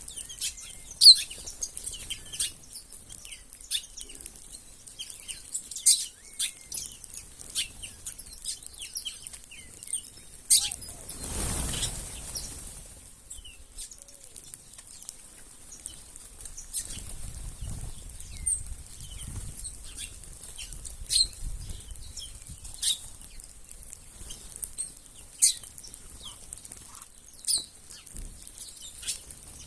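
A flock of small birds chirping busily, many short high calls overlapping, with a rush of wing flaps about eleven seconds in as a group takes off.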